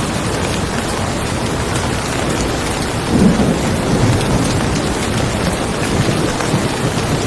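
Steady rain falling, with a low rumble of thunder rolling in about three seconds in and dying away over a few seconds.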